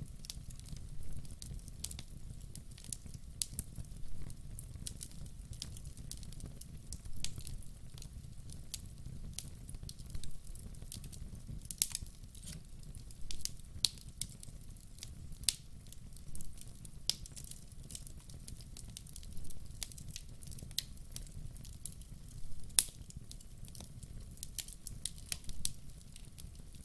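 Wood fire burning: logs crackling and popping in irregular sharp snaps over a steady low rumble of the flames, with a few louder pops.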